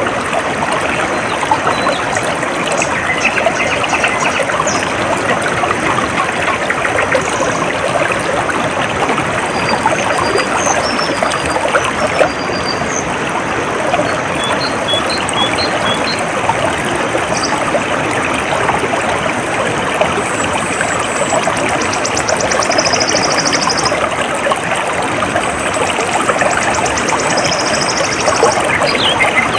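Steady trickling of a small stream. Small birds chirp now and then above it, with short high notes in the middle and a couple of buzzy trills in the second half.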